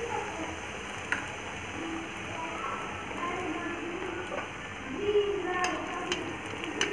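Battered brinjal slice frying in hot oil in an aluminium kadhai: a steady sizzle. A click about a second in, and a few more near the end as a slotted spoon knocks against the pan.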